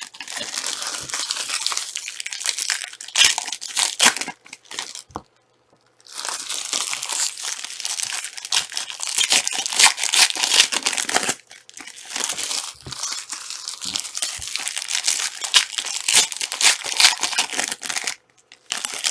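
Panini Prizm trading card packs being torn open, their wrappers crinkling and rustling as the cards are handled, in several spells with short pauses between.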